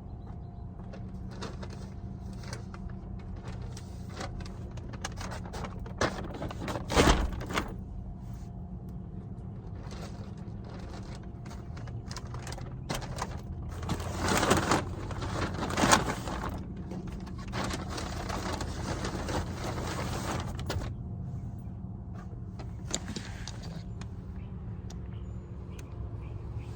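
Groceries being handled and packed: scattered rustling, knocks and thumps, a louder clatter about seven seconds in and again around fourteen to sixteen seconds, over a steady low hum.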